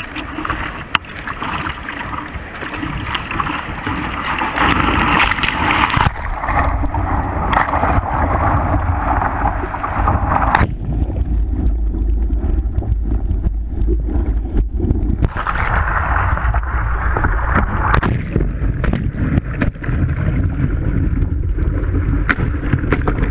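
Rushing water of a river rapid with wind rumbling on the microphone. The hiss of the water cuts out abruptly about ten seconds in and comes back for a few seconds later.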